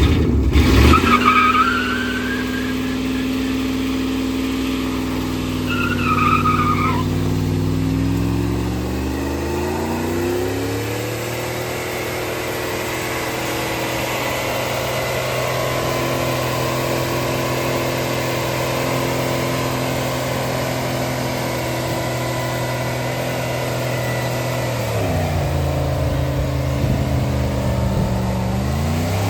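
Turbocharged junkyard Dodge pickup's engine revving under load against the brakes. It runs steady, climbs to high revs about a third of the way in and holds there for over ten seconds, then drops near the end and climbs again.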